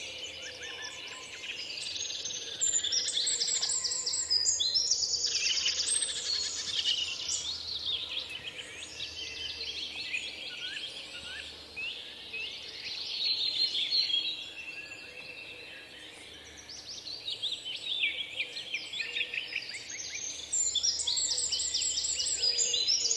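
Several songbirds singing over one another, with high chirps and fast trills. The chorus thins briefly about twelve and sixteen seconds in.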